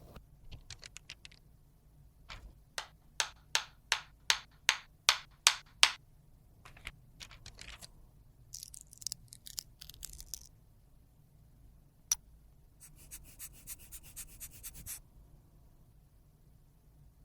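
Close-miked tool work on a makeup product. First comes a run of about ten sharp scraping strokes, roughly three a second and growing louder. Then there is a longer hissing scrape, a single sharp click, and a quick rattle of fine ticks.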